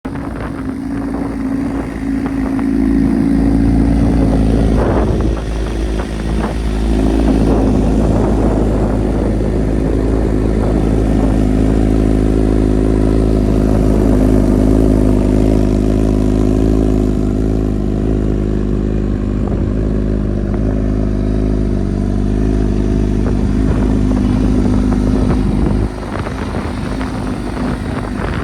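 2016 Honda CBR1000RR's inline-four engine running steadily, with a brief change about five seconds in and a drop in level near the end.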